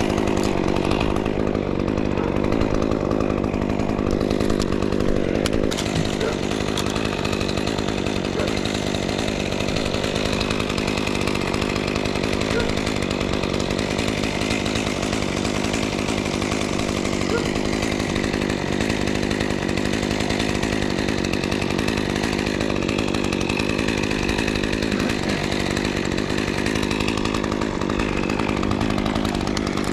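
Chainsaw running steadily at an even speed throughout, with no pauses.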